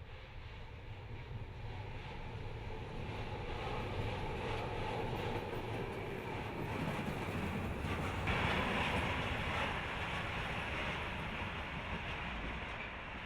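Freight train running past, a steady rumble that builds and is loudest from about eight seconds in.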